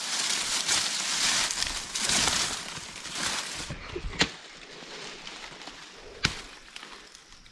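Rustling of dry maize leaves and stalks being pushed through and handled, fading after about three seconds, then two sharp snaps about two seconds apart.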